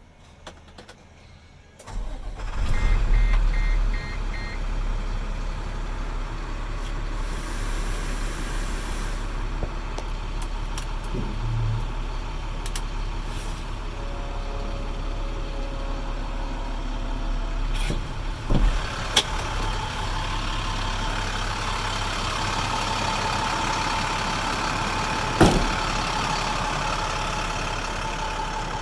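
International DT466 inline-six diesel starting about two seconds in, with a short loud surge, then idling steadily. Four short beeps sound as it starts, and a few sharp clicks come later.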